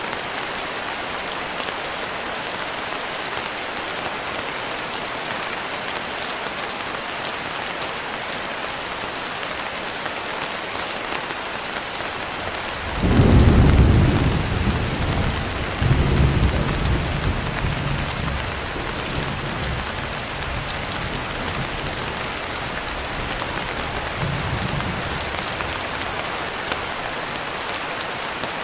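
Steady heavy rain. About halfway through, thunder breaks in with a sudden loud low rumble, swells again a couple of seconds later and rolls away, with a faint distant rumble near the end.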